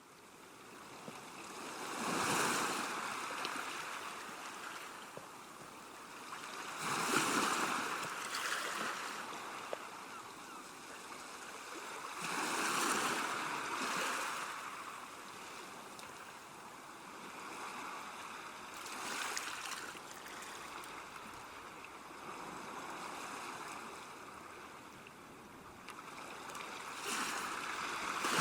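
Ocean surf washing onto a beach, the hiss of the waves swelling and fading every five or six seconds.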